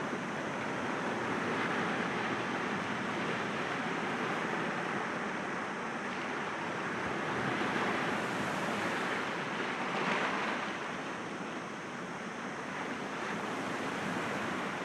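Sea waves breaking gently against rocks: a continuous rush of surf that swells and eases, loudest around eight and ten seconds in.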